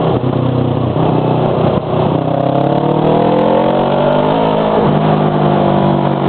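Motorcycle engine under hard acceleration while overtaking cars; its pitch climbs steadily through the middle, then levels off.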